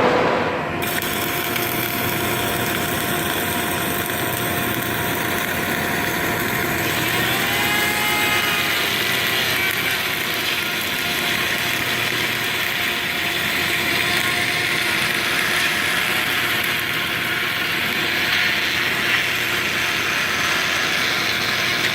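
Steady industrial machine noise, a dense hum with several steady tones. The sound changes abruptly just under a second in, and a brief whine rises and falls about 8 seconds in.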